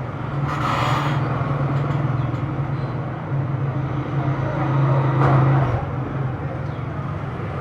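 Road traffic: motor vehicles passing on a street, a steady engine drone that swells and fades, loudest about five seconds in, with a short hiss near the start.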